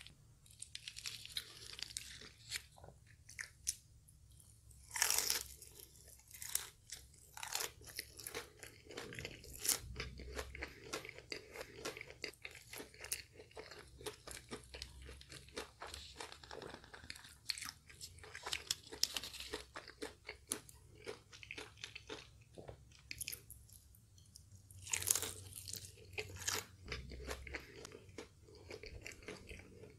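Close-miked chewing and crunching of crispy KFC fried chicken coating, many small crackling bites, with louder crunch clusters about five seconds in and again near twenty-five seconds.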